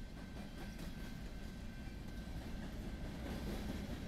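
BNSF covered hopper cars rolling past: a steady low rumble of steel wheels on rail, with a few light clicks as wheels cross rail joints and a faint steady high tone underneath.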